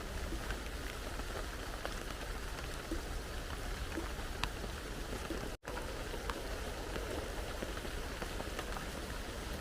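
Heavy rain falling steadily, with many individual drops ticking on a surface. The sound breaks off for an instant a little past halfway, then carries on unchanged.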